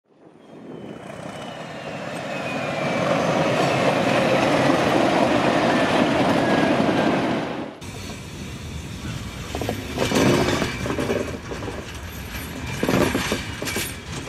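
Train sound effect: a train passing, rising out of silence to a steady rush with a faint falling whine. About eight seconds in it cuts off suddenly to train wheel clatter, with louder knocks twice, a few seconds apart.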